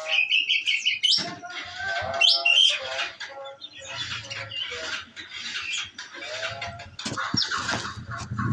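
Olive-backed sunbird (konin) singing in rapid, sharp chirps and trills, the forceful 'shooting' song that keepers prize in a well-fed bird.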